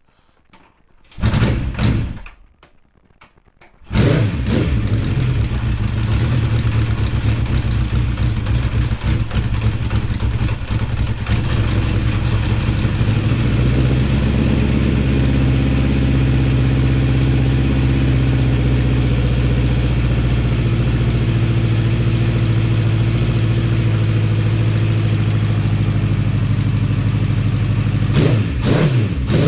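Honda CB750 Four's air-cooled inline-four, breathing through its stock HM341 mufflers, being started. A brief first try about a second in, then it fires about four seconds in and runs on at a steady idle, with a few short blips of throttle near the end.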